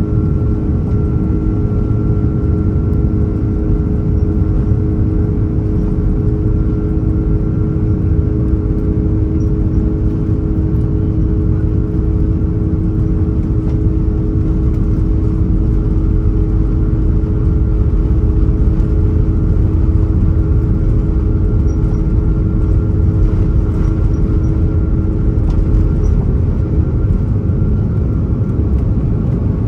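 Airbus A330-300 cabin noise in flight: the steady drone of its Rolls-Royce Trent 700 engines and rushing air, with several steady humming tones.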